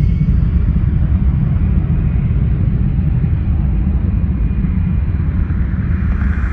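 Gulfstream G450 business jet's two Rolls-Royce Tay turbofans on takeoff, a loud, steady, deep rumble.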